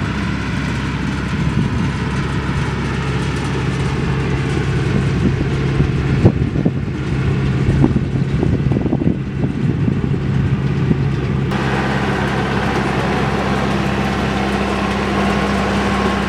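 Tractor engine running steadily under the load of a round baler, a constant low drone, with a run of irregular sharp knocks and clatter in the middle.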